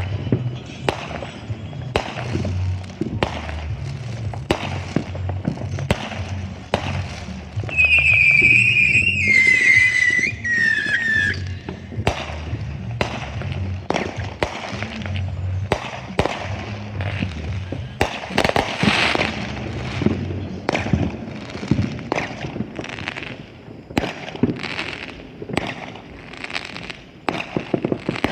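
Fireworks and firecrackers going off again and again in sharp bangs and crackles. A high whistle falls in pitch for about three seconds starting around eight seconds in. Music with a thumping bass beat plays underneath until about two-thirds of the way through.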